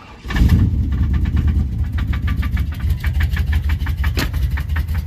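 Big-block Chevy V8 starting about a third of a second in, then idling with a rapid, steady knock. The owner takes it for a rod knock, possibly a main bearing.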